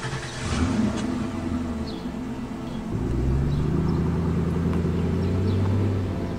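Car engine pulling away: a low rumble swells about three seconds in, rising in pitch as the convertible accelerates off and then running steadily.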